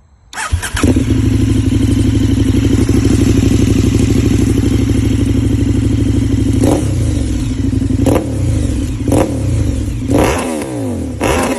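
2020 KTM 1290 Super Duke R's 1301 cc V-twin through a full titanium Akrapovič exhaust, starting up about half a second in and settling to a loud, steady idle. In the second half it is blipped five times in quick succession, the pitch jumping up and falling back with each blip.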